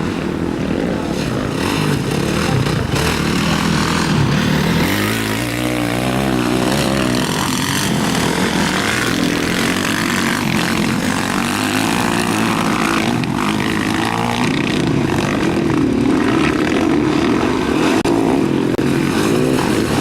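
Motocross motorcycles racing, their engines revving and changing pitch as they pass, with one bike's engine standing out about five to seven seconds in.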